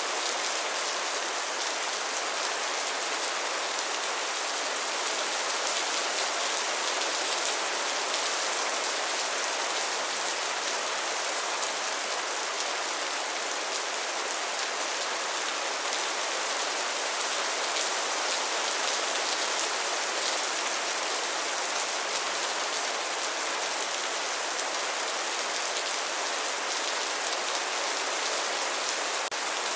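Steady rain falling and pattering on surfaces, an even hiss with fine drop ticks that keeps the same level throughout.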